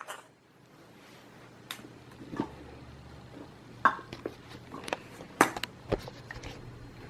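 Scattered light knocks and clatters of plastic toys and balls being handled and dropped in a toy bin.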